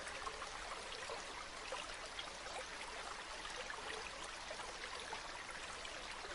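Waterfall: a steady rush of falling water, dotted with many small splashes and droplets.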